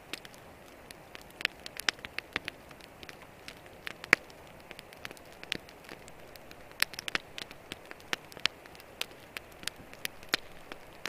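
Sparse, irregular sharp crackles and pops over a faint steady hiss, the sound of camp cooking, with one louder pop about four seconds in.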